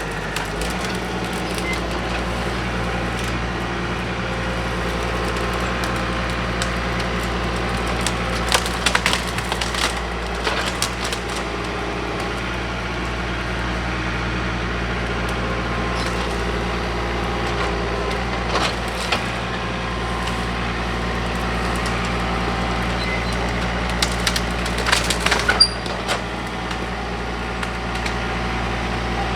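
John Deere 4052R compact tractor's diesel engine running steadily, with wood cracking and splintering in two clusters of snaps, about eight seconds in and again near the end, as the grapple works through dead brush and branches.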